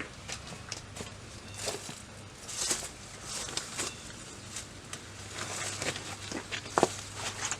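Scattered light clicks, clinks and scrapes of hand tools and parts being handled during strut removal on a car, over a faint steady low hum. The sharpest click comes near the end.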